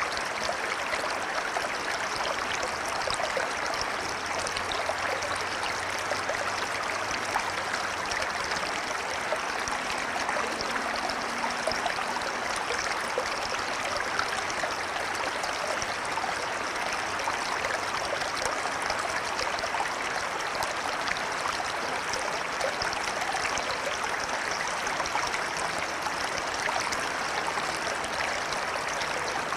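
River water flowing and rushing steadily, an even, unbroken wash of water noise.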